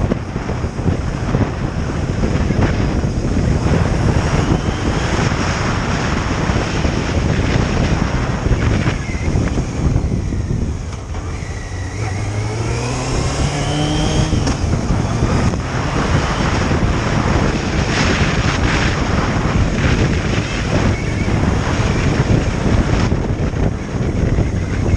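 Wind rushing over the microphone of a moving motorcycle, with engine and road noise underneath. About halfway through the rush eases briefly, then the engine's note rises as the bike accelerates.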